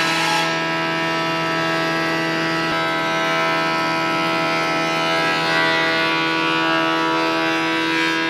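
A woodworking power tool running at steady speed, giving a constant whine of several fixed tones over a hiss.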